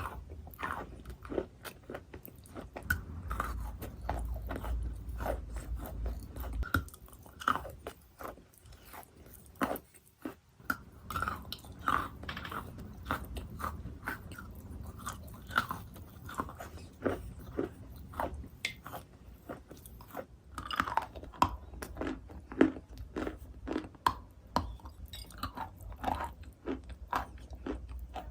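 A person biting and chewing chalk: irregular crisp crunches and crackles, with a short lull about nine seconds in.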